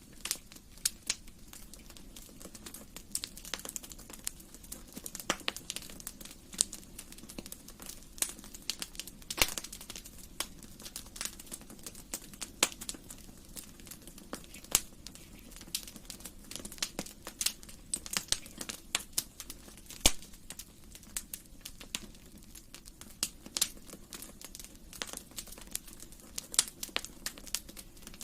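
Wood fire burning in a fireplace, crackling with irregular sharp pops over a steady low hiss, one louder snap about twenty seconds in.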